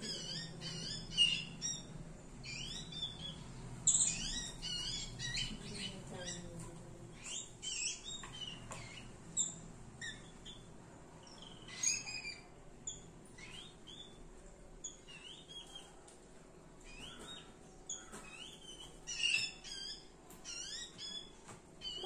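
Small birds chirping: an adult bird and a fledgling giving short, high, rising calls in quick bursts. The bursts are thickest about a second in, around four seconds, around twelve seconds and again near the end.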